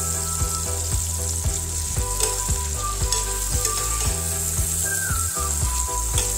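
Sliced tomatoes sizzling steadily in melted butter in a frying pan while a steel spoon stirs and turns them.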